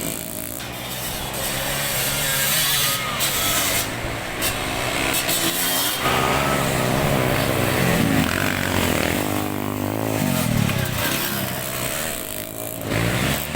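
Several motocross bike engines revving, their pitch rising and falling again and again as the bikes accelerate and ease off.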